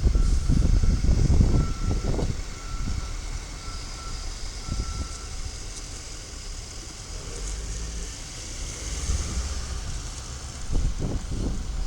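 Side-loader garbage truck running with a low rumble, its back-up alarm beeping five times about once a second in the first half, with wind gusting on the microphone.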